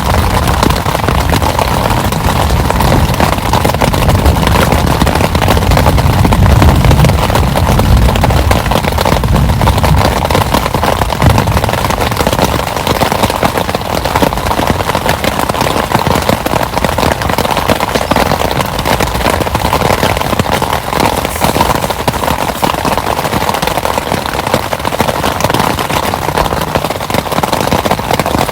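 Heavy rain falling steadily, with a low rumble of thunder that swells a few seconds in and dies away about ten seconds in.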